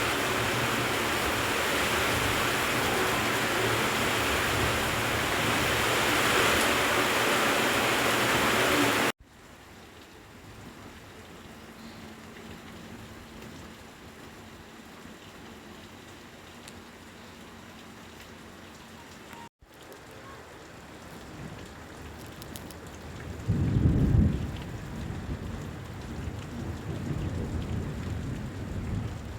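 Heavy rain pouring down, a loud steady hiss that drops to a much quieter patter after a cut about a third of the way in. Near the end a loud low rumble rises and fades.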